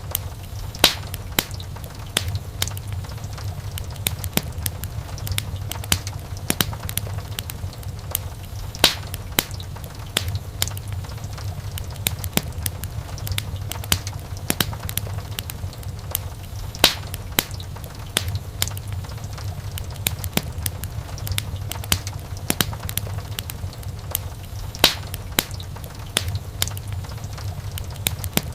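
Wood fire burning in a fireplace: a steady low rumble of flame under irregular crackles and sharp pops of burning wood, a few of them louder than the rest.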